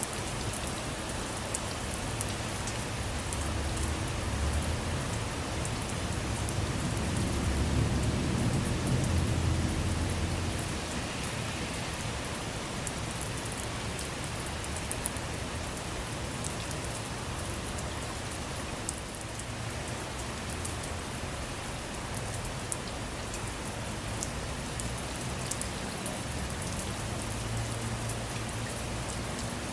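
Steady rain falling on a car's roof and windows, heard from inside, with scattered sharp drop ticks. A low rumble of distant thunder swells about four seconds in and fades by about ten seconds, with a fainter rumble near the end.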